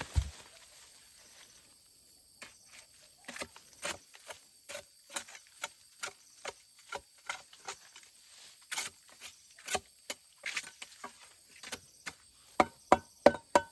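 A series of short, sharp knocks and clicks, irregular at about two a second, with four louder knocks in quick succession near the end.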